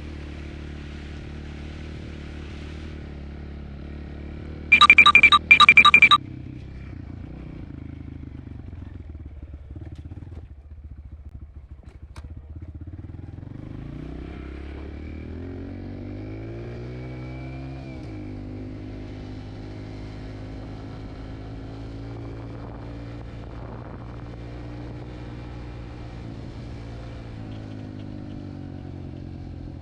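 Dirt bike engine running steadily at low speed, then about halfway through its pitch rises over a few seconds and holds at a higher steady speed. Around five seconds in, a quick series of loud short beeps sounds over it.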